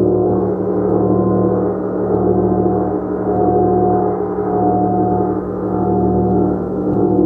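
Gong played in a continuous, sustained wash of many overlapping tones. The loudness swells and eases roughly every second and a half, with no single sharp strike standing out.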